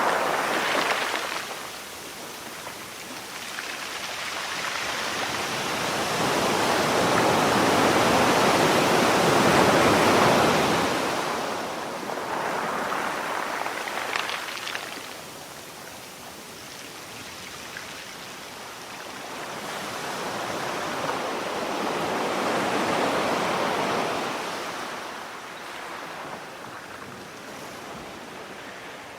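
Sea waves washing onto a shore: slow surges that swell and recede, the largest peaking partway through and another near the end before fading.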